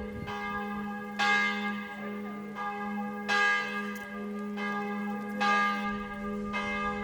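Church bell being rung, the wishing bell of the church on Lake Bled's island: three strikes about two seconds apart, each ringing on over a steady low hum.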